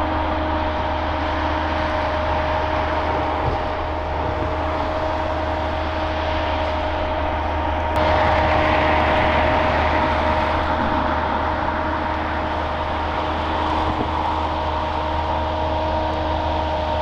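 Airbus A350 jet noise: a steady whine with constant tones over a broad rush and low hum. It gets a little louder about halfway through.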